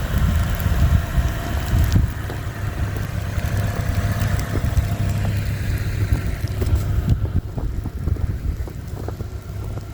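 Car running, heard from inside: a steady low rumble with a hiss over it that fades out about five to seven seconds in.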